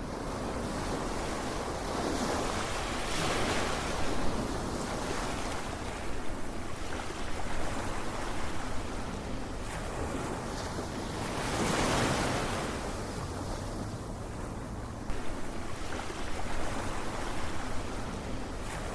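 Ocean surf: waves breaking and washing in, the rush swelling and falling back, with bigger surges about three seconds in and again near the middle.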